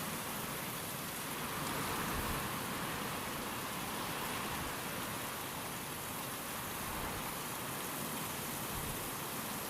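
Steady rain falling with wind, an even dense hiss that swells slightly about two seconds in.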